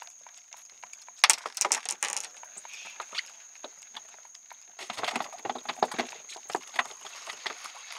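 Two spells of quick, irregular knocks and rattles, one about a second in and a longer one starting about five seconds in, over a steady thin high-pitched whine.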